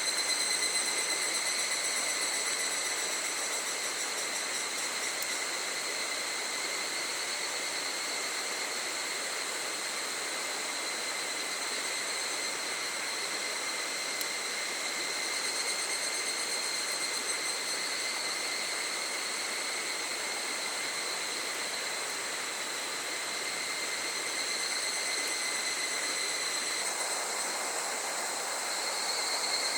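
Cicadas calling in a steady chorus, swelling and easing in waves, over a continuous rushing hiss from a small stream.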